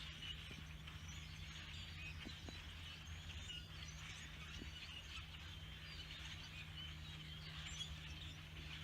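A large flock of blackbirds chattering together, a dense continuous mass of overlapping chirps and squeaks, over a steady low hum.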